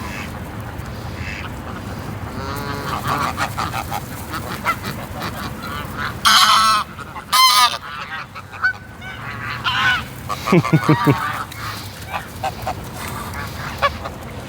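A flock of greylag geese honking, many calls overlapping. Two very loud, harsh honks come close together about six and seven seconds in, and a run of lower calls follows near the end.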